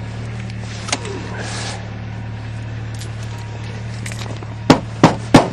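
An engine idling steadily with a low hum, with a click about a second in and three sharp knocks in quick succession near the end.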